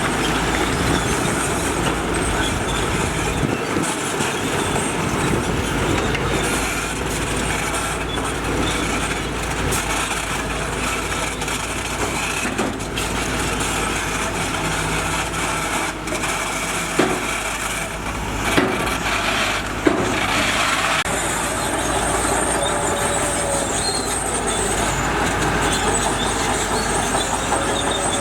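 Heavy earthmoving machinery working, its engines running steadily, with three sharp clanks about two-thirds of the way through.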